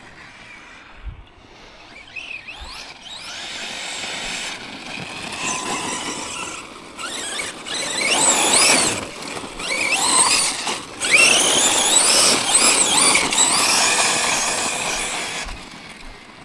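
Tekno MT410 2.0 RC monster truck's electric motor and drivetrain whining, rising and falling in pitch with bursts of throttle. It is loudest past the middle.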